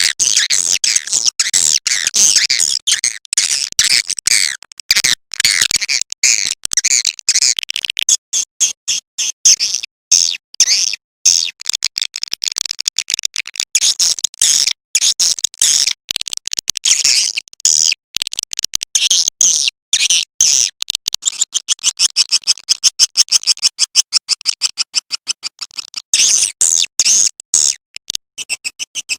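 Recorded swiftlet lure call, sometimes called a 'calling sound': dense, high chirping and twittering of edible-nest swiftlets, looped continuously. Roughly two-thirds of the way through, the chirps come in a fast, even run.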